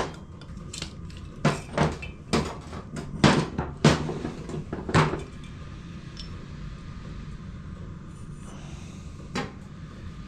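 Metal engine parts and tools knocking and clinking on a workbench as they are handled: about ten sharp knocks in the first five seconds, then one more near the end.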